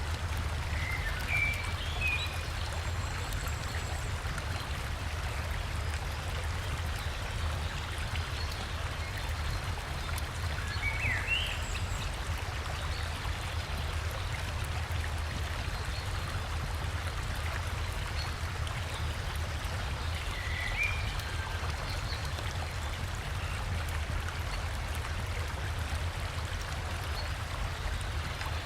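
A river rushing steadily over rocks, with three short bursts of bird chirps: about a second in, near the middle and about two-thirds of the way through.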